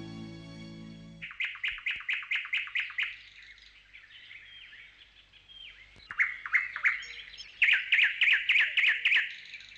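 A songbird singing: two fast runs of repeated high chirps, about six a second, with a few single calls between them. The last chord of a song fades out at the very start.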